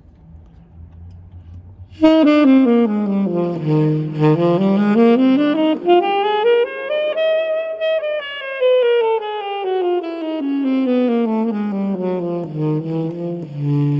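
1974 Selmer Mark VI alto saxophone, freshly overhauled, played solo in quick note runs starting about two seconds in. The runs sweep down to the low notes, climb to the top of the range and come back down.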